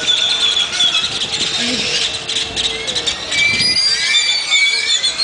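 A large flock of birds in the trees calling loudly all at once: a dense chorus of shrill whistles and squeals, many of them sliding up or down in pitch, over rapid clicking chatter.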